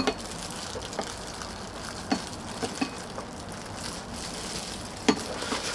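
A few short light clicks and knocks of eating utensils against dishes, over a faint steady outdoor background.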